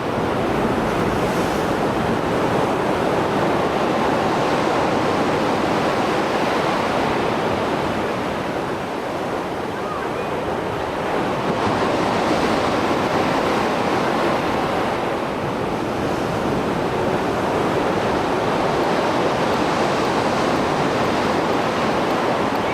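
Sea surf breaking on the shore after a storm: a continuous wash of waves that swells and eases slowly, with a lull about nine seconds in before the next set rises.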